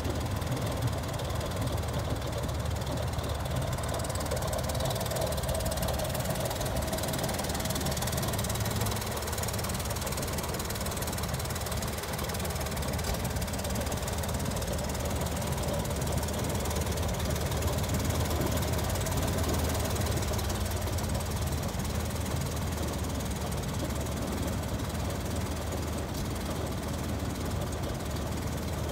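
1962 Chevrolet Corvair van's rear-mounted, air-cooled flat-six engine running steadily, with no revving.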